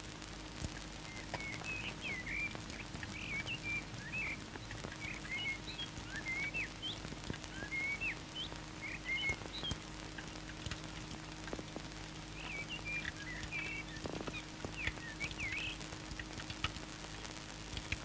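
Small birds chirping in many quick, short calls that rise and fall, over a steady low hum.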